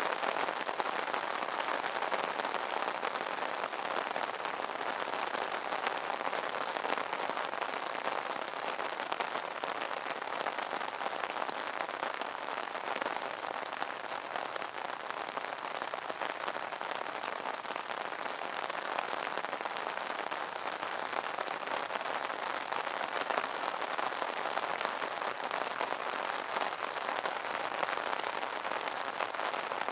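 Steady rain drumming on an umbrella canopy: a dense, even patter of many small drop impacts that holds without let-up.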